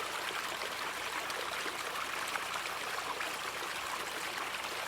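Gentle river flowing, a steady even rush of running water.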